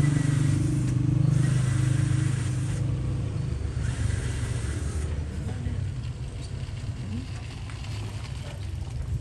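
A motor vehicle engine running steadily, loud at first and fading after about five seconds.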